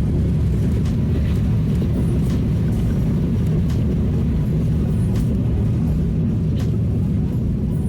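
Steady low rumble of an airliner heard from inside the cabin, as it moves toward takeoff, with faint light rattles throughout.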